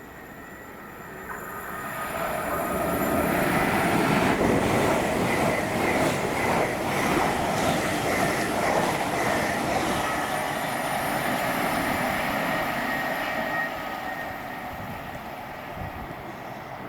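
A train passing through a station: it grows louder over the first few seconds, runs loud for several seconds as it goes by, then fades away.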